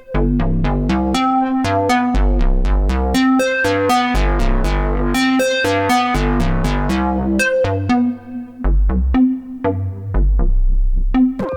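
Dreadbox Typhon monophonic analog synthesizer playing a fast sequenced line of short, plucky notes over a bass. Its tone grows brighter toward the middle as the filter opens, then darkens again.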